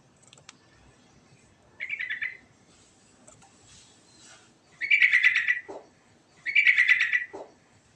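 Yellow-vented bulbul (trucukan) singing in rolling phrases: three bursts of rapid bubbling notes, a short one about two seconds in and two longer ones near five and seven seconds.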